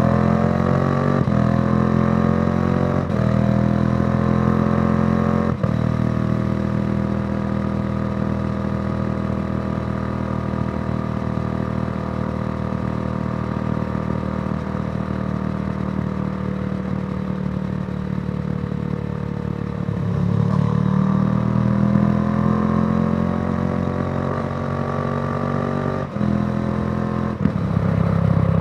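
2014 Yamaha YZF-R1's crossplane inline-four through a Yoshimura exhaust, pulling up through the gears with a short break at each upshift in the first few seconds. It then runs at a steady cruise. About two-thirds of the way in it accelerates again, with two more quick shifts near the end.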